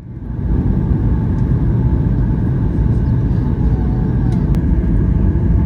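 Loud, steady cabin rumble aboard a Boeing 737-900ER during its landing, fading up quickly at the start.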